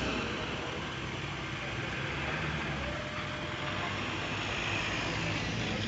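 Car engine running steadily at low revs.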